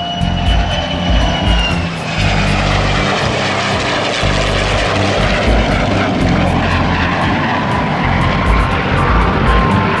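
Aircraft engine noise from a plane flying past, building to a loud, steady rush a couple of seconds in, with a high whine that falls slowly in pitch. Background music plays underneath.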